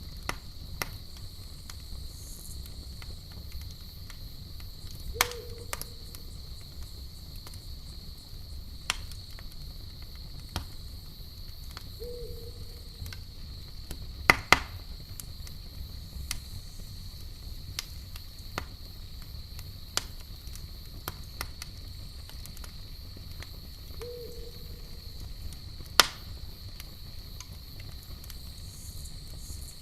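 Campfire crackling with scattered sharp pops, the loudest about halfway through and near the end, over a steady high insect trill. Three short low hoots sound several seconds apart.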